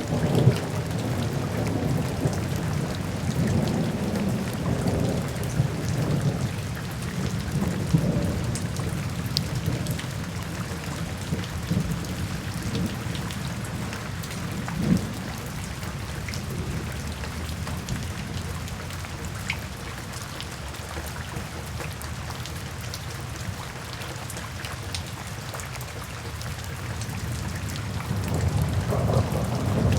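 Steady rain with scattered sharp drops, under rolling thunder. The rumble is heaviest in the first several seconds, dies away through the middle and builds again near the end.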